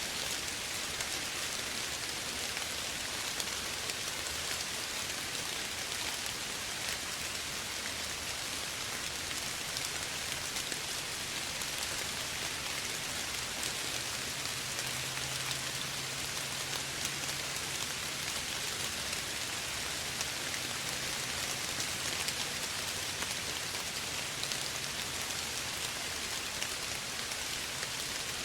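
Soft, steady rain: an even hiss of falling rain flecked with fine drop patter. A faint low hum sits underneath through the middle stretch.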